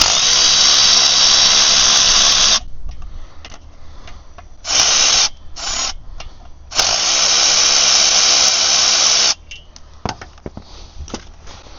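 Power tool run in four bursts, two long ones of about two and a half seconds with two short ones between, undoing bolts on the clutch and flywheel.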